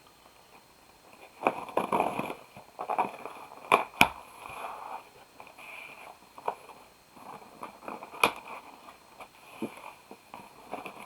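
A cardboard package being opened by hand: crackling and crinkling of cardboard and packing, with a few sharp snaps, the loudest about four and eight seconds in.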